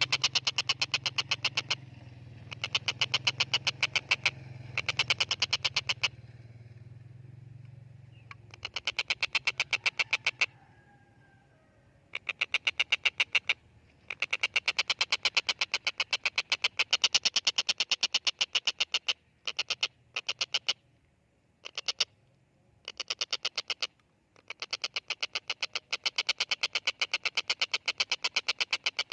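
Stork-billed kingfisher (tengkek buto) giving rapid harsh chattering series of about ten sharp notes a second, in runs of one to four seconds with short pauses between them. A low steady hum sits underneath for the first several seconds.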